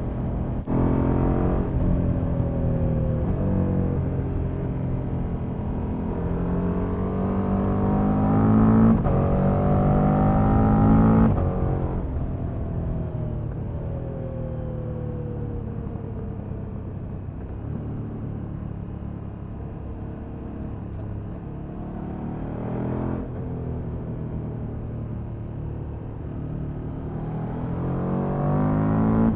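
KTM Super Duke's V-twin engine on its stock exhaust, heard from the rider's seat. It pulls up through the gears twice with upshifts, then rolls off with the revs falling and cruises at a fairly steady speed, and accelerates again near the end.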